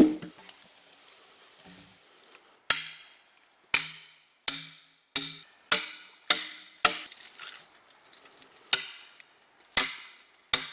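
A run of sharp knocks, roughly one a second but unevenly spaced, each with a brief low ring, starting about two and a half seconds in.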